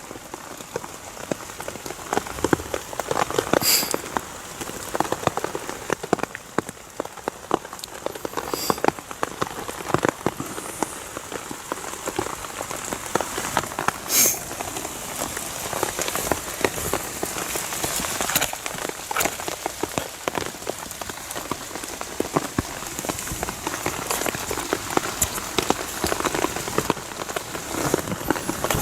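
Steady rain falling, with many separate drops ticking on a surface close by.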